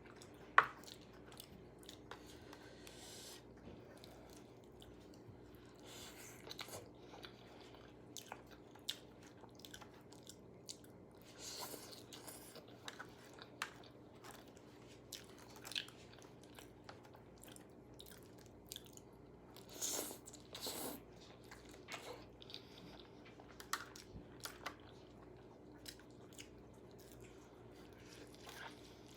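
Close-up eating sounds: biting into and chewing crunchy KFC fried food, with scattered crisp crunches and wet chewing. A sharp click about half a second in is the loudest sound, and two bigger crunches come near the middle and about two-thirds of the way through.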